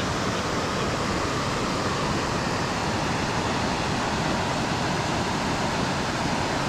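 Steady rush of flowing creek water, an even unbroken noise with no change in level.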